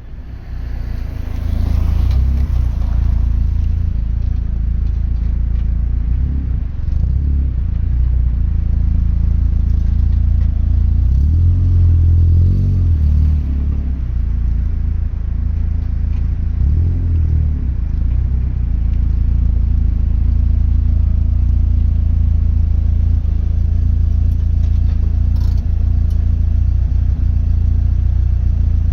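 Mazda NA8C Roadster (MX-5 Miata) 1.8-litre four-cylinder running through an Integral Kobe N1-spec exhaust: a steady deep rumble that rises and falls in pitch as the engine revs, around twelve seconds in and again around seventeen seconds in.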